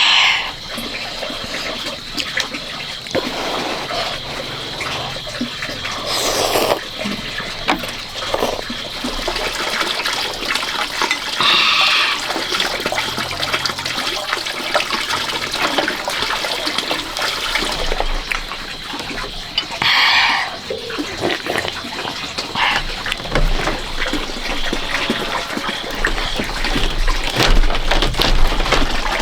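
Water running and splashing steadily, with many small clicks. Three short high-pitched calls stand out, at about six, twelve and twenty seconds in.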